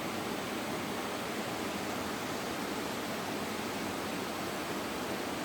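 Steady rush of flowing water at the top of a small waterfall.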